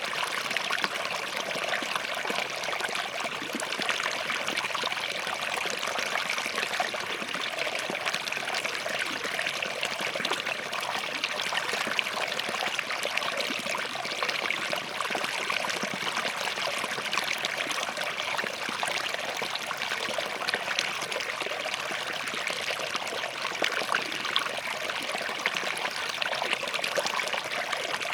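Small forest stream flowing and trickling over rocks: a steady, even babble of running water with fine splashes.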